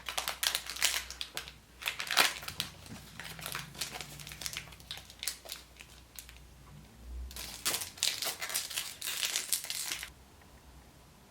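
Foil wrapper of a Chupa Chups surprise egg crinkling and crackling as it is peeled off by hand, in two spells, stopping about a second before the end.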